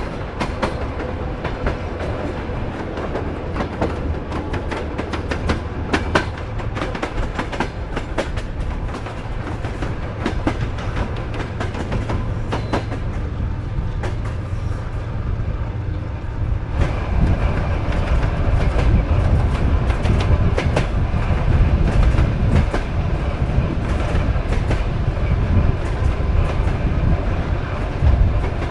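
Soviet-built sleeper train carriage running on the rails: a steady rumble with many clicks and clacks from the wheels over the track. About two thirds of the way in, the rumble and hiss grow louder and heavier.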